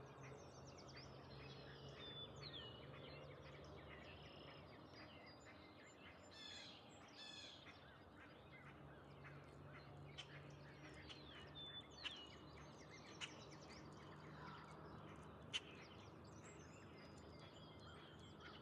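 Faint birdsong: many birds chirping and whistling, with a couple of quick trills, over a low steady hum.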